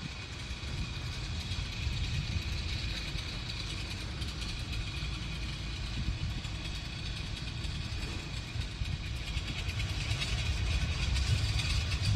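An engine running steadily in the background, with a faint constant high-pitched tone over a low, uneven rumble of noise.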